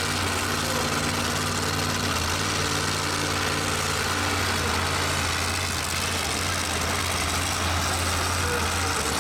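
Vehicle engine idling steadily, a low, even rumble that neither rises nor falls.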